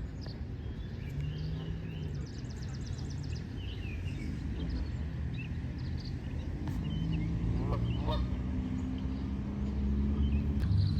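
Geese calling on and off, with two more prominent honks about eight seconds in, over a steady low rumble.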